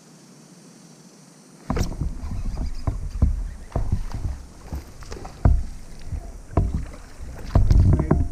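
Irregular knocks and thuds on a fishing kayak, starting suddenly about two seconds in and going on several times a second.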